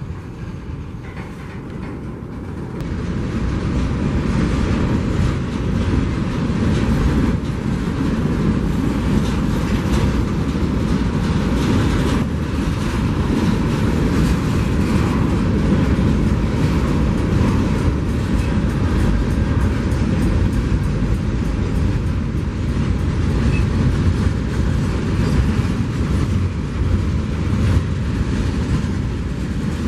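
Train rolling past on the tracks, its wheels clattering steadily over the rails, getting louder about three seconds in and staying loud.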